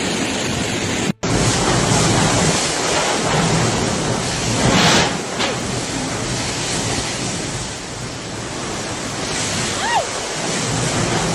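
Loud, steady rushing of storm wind and water, broken by a cut about a second in.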